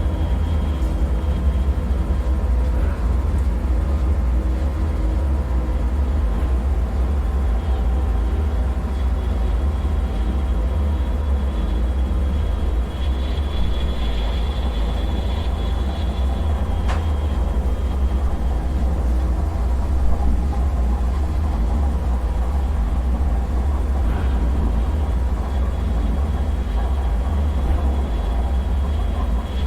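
Dark bunker ambience: a steady, heavy low rumble with a faint high whine that swells and fades twice, and a single sharp click a little past halfway.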